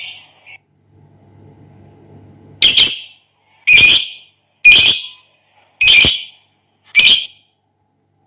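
Lovebird giving five loud, sharp calls about a second apart, starting a little under three seconds in.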